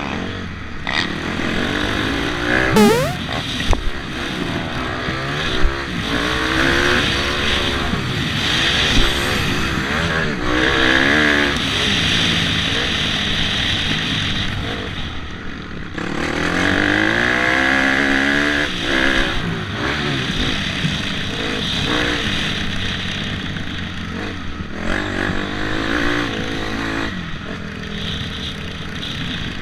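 Dirt bike engines revving up and down on a motocross track, the pitch repeatedly climbing and dropping with throttle and gear changes. The sound breaks off sharply about sixteen seconds in and starts again at once.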